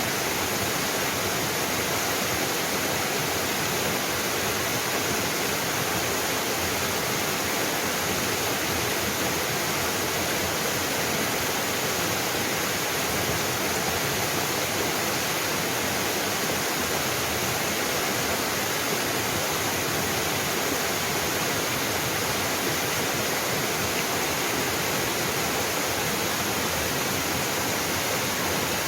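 Small mountain waterfall splashing, a steady rushing hiss with no change over the stretch.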